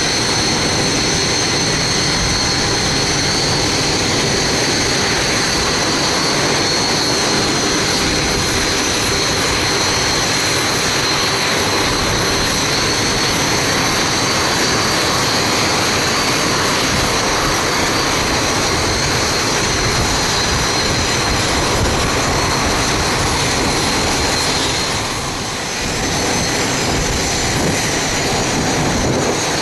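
Jet engines of the Red Arrows' BAE Hawk aircraft running steadily, a loud rushing noise with a high, steady whine on top, dipping briefly near the end.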